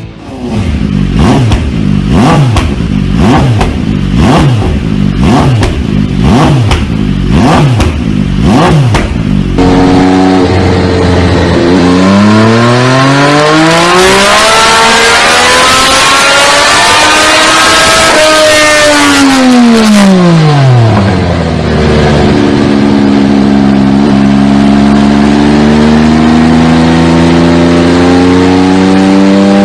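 MV Agusta Dragster 800 RR's 798cc three-cylinder engine being revved through its exhaust. For about the first ten seconds it takes quick repeated throttle blips, roughly one and a half a second. Then one long rev climbs slowly for several seconds and falls back, and the engine settles into a steady run whose revs creep up near the end.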